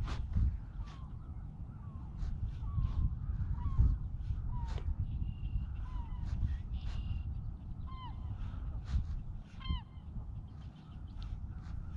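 Birds calling repeatedly: short calls that drop in pitch, one every half second to a second, over a low wind rumble on the microphone, with scattered clicks.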